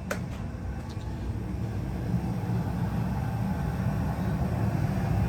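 Carrier Infinity98 gas furnace running, its blower giving a steady low rush of air that slowly grows louder, with a sharp click near the start and a fainter click about a second in.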